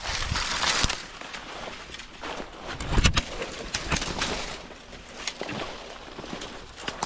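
Footsteps and rustling through dry field cover, a run of crackles and brushing, with a heavier thump about three seconds in.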